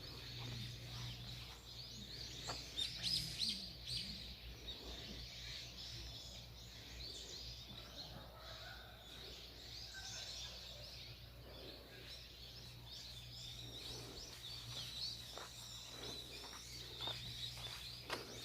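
Small birds chirping and calling on and off, quick thin twittering notes, over a faint steady low hum.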